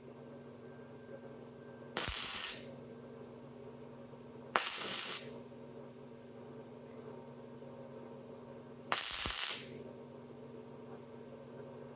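Welder laying three short spot welds, each a half-second burst of arc crackle, with a steady hum underneath.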